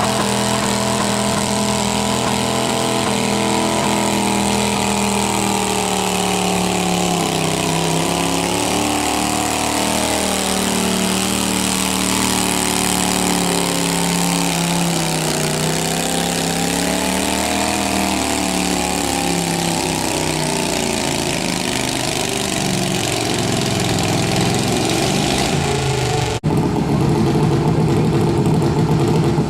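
Garden tractor engine running hard during a tractor pull, its pitch sagging and recovering several times as the load changes. An abrupt break near the end, after which the engine sound continues.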